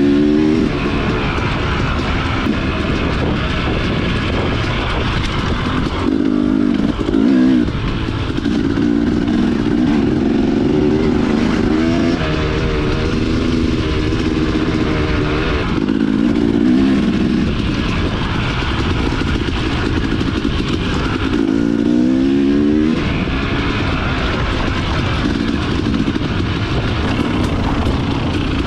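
Dirt bike engine running hard, its pitch rising and falling repeatedly with throttle and gear changes, with several rising revs.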